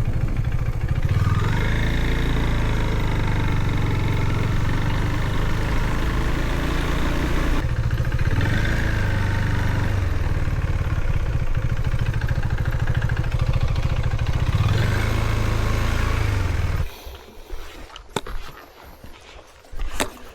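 Husqvarna Svartpilen 401 single-cylinder motorcycle engine running steadily under way, its pitch rising and falling a little. About 17 s in it drops away, leaving quieter scattered clicks and knocks.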